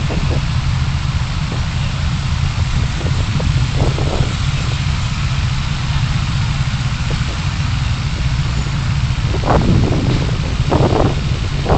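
Car driving in city traffic: a steady low rumble of engine and tyre noise with hiss, picked up by a dashcam, and a few short bumps near the end.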